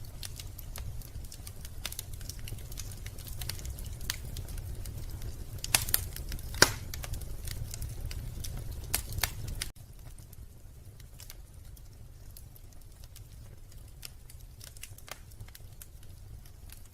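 Wood fire crackling in a fireplace: irregular sharp pops and snaps over a low rumble, with a few louder pops between about six and nine seconds in. Just under ten seconds in, the rumble drops away abruptly and the crackling goes on more quietly.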